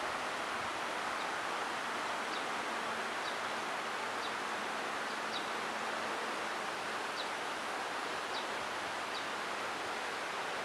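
Steady outdoor rushing ambience, with faint short high chirps repeating about once a second.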